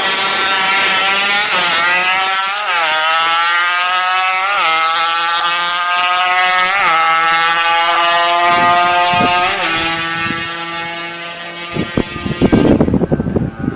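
Motorcycle engine accelerating through the gears, its pitch climbing and then dropping at each upshift, four or five shifts in all, before the engine fades. Near the end, loud irregular rumbling and knocks take over.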